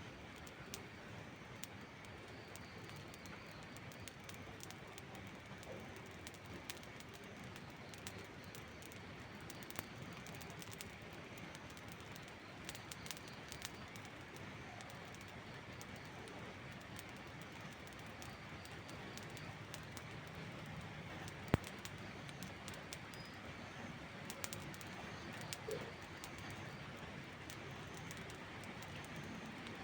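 Steady rain with a wood campfire crackling, scattered small pops and one sharp, louder crack about two-thirds of the way through.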